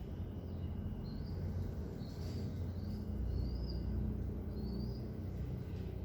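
Birds chirping: about five short, high chirps over a steady low rumble.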